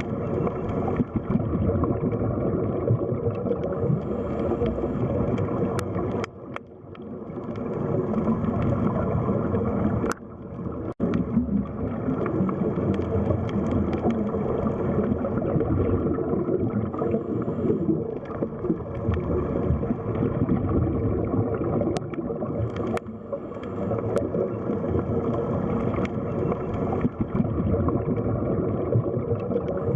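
Underwater sea ambience: a steady, low rush of water with a few faint clicks, dropping away briefly twice.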